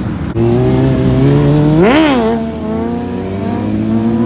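Motorcycle engine running loud, with one quick rev up and back down about two seconds in.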